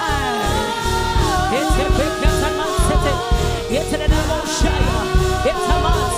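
Gospel worship music: singing that slides and bends between notes over held notes and a steady low pulse from the band.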